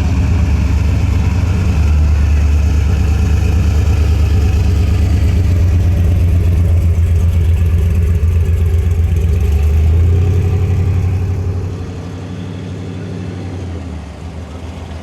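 A car engine and exhaust running with a loud, deep, pulsing rumble as a car rolls by slowly. The rumble drops away sharply about twelve seconds in.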